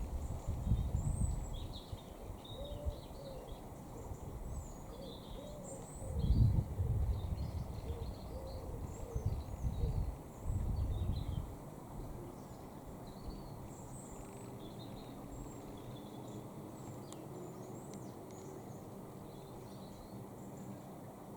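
Outdoor dawn birdsong: many short high chirps and calls throughout, with some lower wavering calls in the first half. Low, irregular buffeting rumbles come in at the start and again from about six to twelve seconds in.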